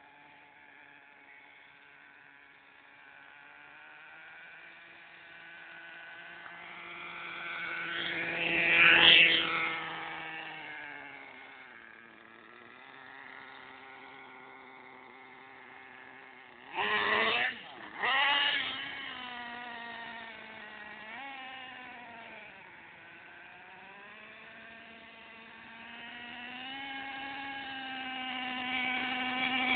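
Electric radio-controlled monster truck's motor and drivetrain whining, its pitch rising and falling as the throttle is worked. It gets much louder as the truck comes close, about nine seconds in, twice briefly around seventeen seconds, and again near the end.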